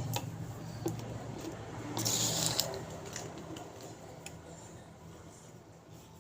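Spoon handling with water: a few light clicks of a spoon against a container, and a short hiss of moving water about two seconds in, over a steady low hum.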